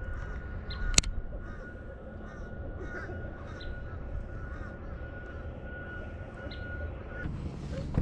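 Birds calling in the distance over a steady high whine and a low rumble of wind, with one sharp click about a second in. The whine stops shortly before the end.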